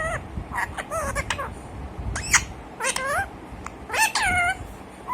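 Pet parrot giving a run of short, meow-like calls and squawks. Several slide down in pitch, and a sharper high note comes about halfway through.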